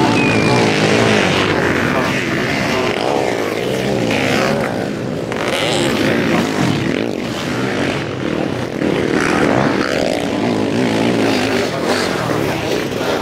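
Several sidecar motocross outfits racing, their engines revving up and down continuously and overlapping.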